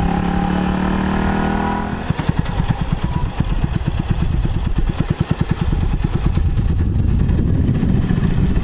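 Kawasaki Estrella's single-cylinder engine running as the motorcycle rides along, with wind noise on the microphone. About two seconds in, the steady engine note gives way to a pulsing beat of separate firing strokes.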